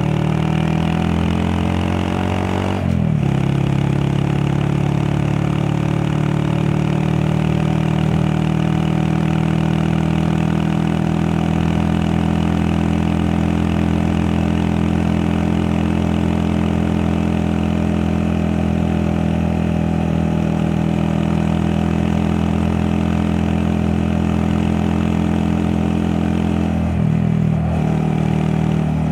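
Honda Monkey 125 sidecar rig's single-cylinder engine under way. The revs climb for about three seconds, then break briefly for an upshift. It then runs at a steady cruise, with another quick gear change near the end.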